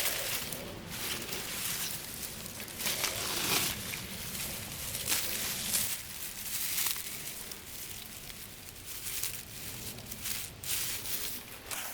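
Footsteps of a person hiking on a trail: a series of short rustling crunches, about one a second.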